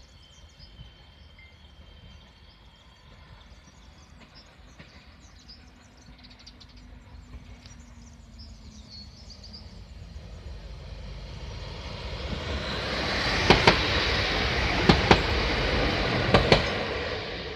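Regional passenger multiple unit approaching and passing close by: a rumble of wheels on rail that swells over several seconds, with three quick double clicks near the end as its wheelsets cross a rail joint. Faint birdsong early on.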